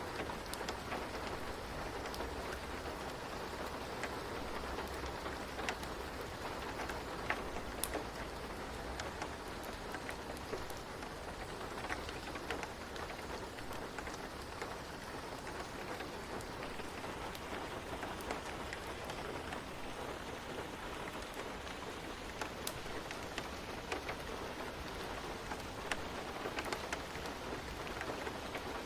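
Steady rain falling on a surface, an even hiss with scattered individual drop ticks. A low rumble underneath fades out about nine seconds in.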